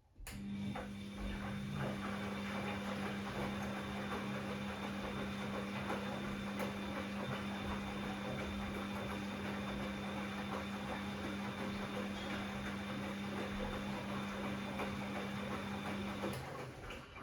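Bosch Classixx 6 washing machine working during its rinse: a steady mechanical hum with water noise that switches on abruptly, runs for about sixteen seconds, and cuts off abruptly.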